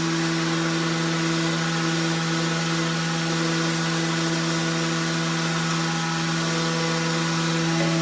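An electric power-tool motor runs at a steady, unloaded speed with a constant hum and whine, then is switched off and starts spinning down with falling pitch at the very end.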